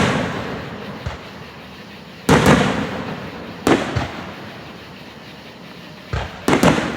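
Aerial firework shells bursting: about five loud booms a second or more apart, each fading slowly in a long echo.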